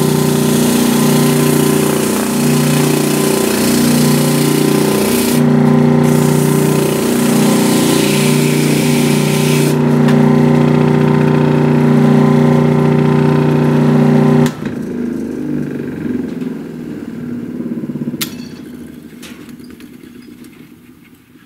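The freshly rebearinged electric motor of a 1930s Delta DP220 drill press running with a steady hum. It is switched off about fourteen seconds in and coasts down, fading away, with one click near the end. The owner thinks the rotor is a little out of balance.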